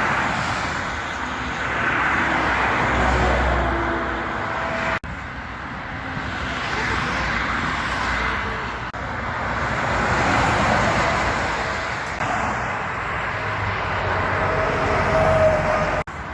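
Road traffic with trucks driving past, the noise swelling and fading as each goes by, broken by abrupt cuts about five seconds in and near the end.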